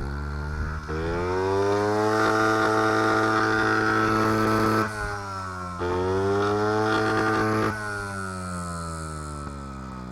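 Honda CRF50F's small single-cylinder four-stroke engine revving up twice, each time held high for three to four seconds, then dropping back and winding down near the end.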